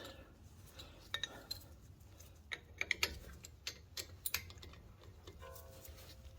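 Scattered metallic clicks and clinks of hand tools and brake hardware being handled, busiest in the middle, with a short ringing tone about five and a half seconds in.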